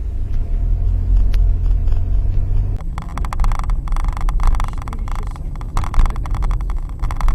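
Car engine and road noise: a steady low rumble that changes abruptly about three seconds in to a rougher, crackling noise.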